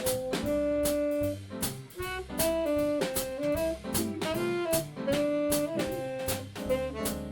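A small jazz band playing live: a melody of held and stepping notes over bass notes, with drum and cymbal strikes keeping a steady beat.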